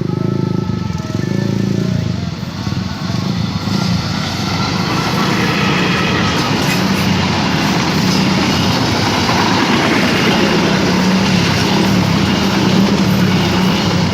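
Diesel-hauled passenger train passing close by. The locomotive's engine hums low and steady, and a faint horn tone trails off in the first few seconds. From about four seconds in, the rumble and clatter of wheels on the rails builds and stays loud.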